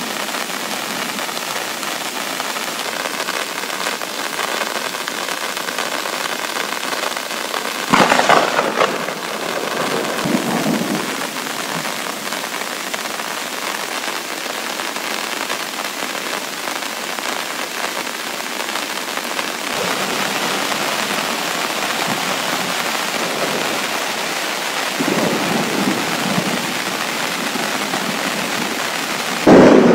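Heavy rain falling steadily, with a sudden loud thunderclap about eight seconds in that rolls into a rumble, and more low thunder rumbling near the end.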